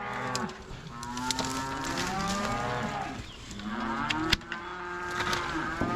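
Cattle mooing: long, drawn-out moos that rise and fall in pitch, with more than one cow calling in turn. A single sharp click sounds a little past the middle.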